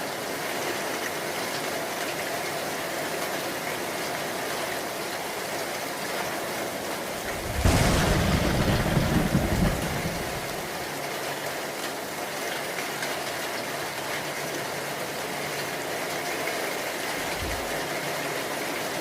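Steady heavy rain, with a sudden thunderclap about eight seconds in that rumbles low for roughly two seconds before fading back into the rain. A brief low thump comes near the end.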